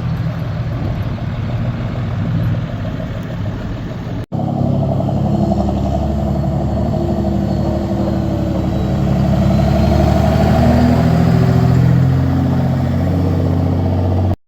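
Truck engine running, its pitch rising and falling gently as it is driven, with an abrupt cut about four seconds in.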